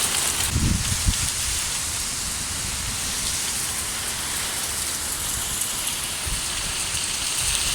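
Thunderstorm rain falling steadily on surfaces, with a brief low rumble about a second in.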